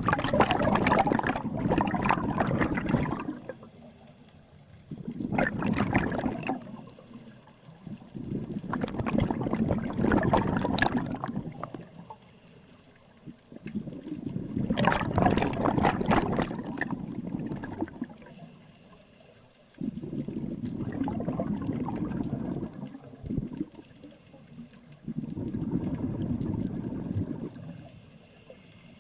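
Scuba diver breathing through a regulator underwater: about six long bubbling rushes of exhaled air, each two to three seconds long, in a steady breathing rhythm with quieter inhales between them.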